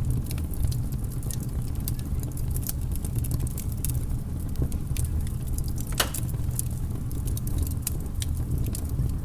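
Fire crackling: irregular sharp pops and snaps over a steady low rumble, with one louder pop about six seconds in.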